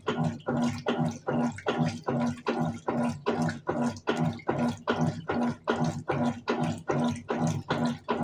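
Colormaq Eco Max 14 kg top-loading washing machine agitating its wash load: the motor hums in regular strokes, about two and a half a second, with water sloshing in the tub.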